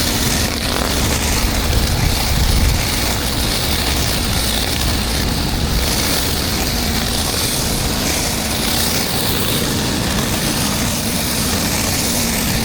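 12 GPM pressure washer running steadily: its engine hums underneath a constant high-pressure water spray hissing on concrete.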